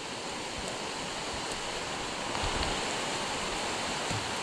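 Heavy tropical rain pouring down, a steady even rushing of falling water.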